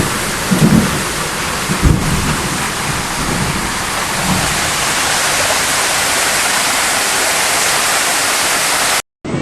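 Heavy rain pouring steadily, with a few brief low rumbles in the first half and a sharp low thud about two seconds in. It cuts off suddenly near the end.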